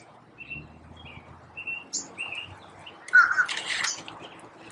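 Small birds chirping in short calls, with a louder call and a brief hiss about three seconds in.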